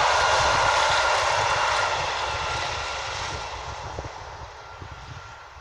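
Diesel passenger train running past and moving away, its engine and wheel noise fading steadily to faint.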